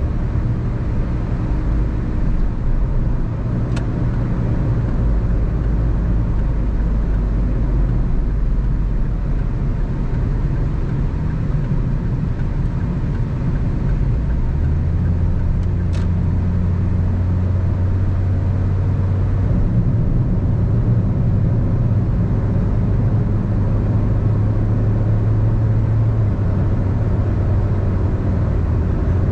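Car driving, its engine humming steadily under continuous tyre and road noise. The engine note shifts about halfway through, and there are two faint clicks.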